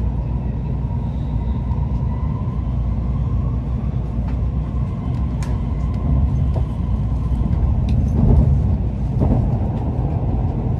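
Running noise inside an N700 series Shinkansen passenger car at low speed: a steady low rumble with a faint steady whine above it. The rumble grows louder and rougher for a moment about eight seconds in.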